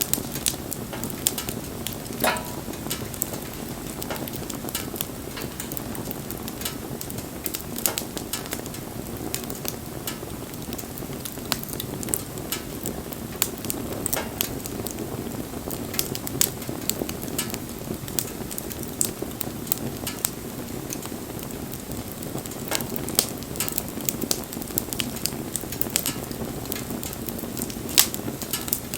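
Campfire crackling: frequent sharp, irregular pops and snaps over a steady low rush of the flames.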